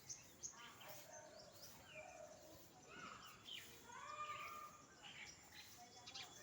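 Several birds calling and chirping, short, rapid notes of changing pitch overlapping one another, faint.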